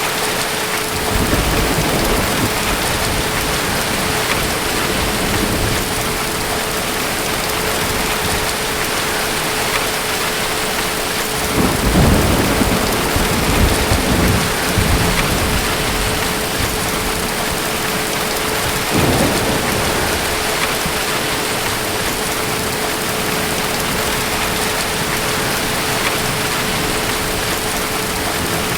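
Steady heavy rain with rolls of distant thunder rumbling low: a short one about a second in, the loudest from about twelve to fifteen seconds, and another around nineteen seconds.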